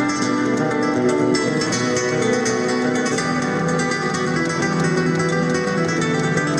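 Acoustic guitar playing flamenco-style music: a quick run of plucked notes over held bass notes.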